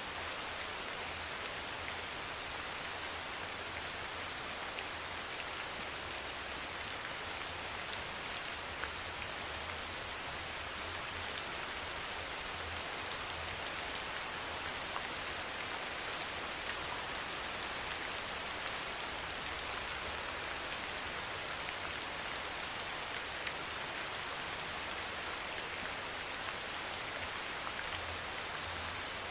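Steady soft rain falling on a surface, with scattered individual drop ticks and a faint low rumble underneath.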